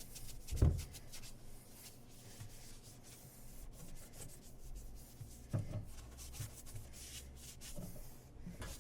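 Non-scratch scrub pad scrubbing a stainless steel dishwasher interior in repeated short strokes, with a few dull knocks, the loudest about half a second in.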